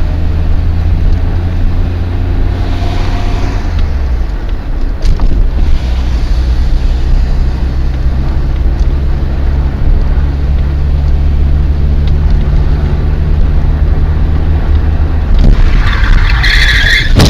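Car engine and road noise heard from inside the car, a steady low hum whose pitch steps down about four seconds in. Near the end a loud, brief, higher-pitched burst rises over it.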